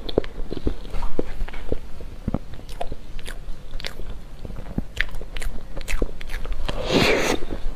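Close-miked eating sounds: sticky mouth clicks and chewing on chocolate mousse cake, with a louder airy rush of noise about seven seconds in.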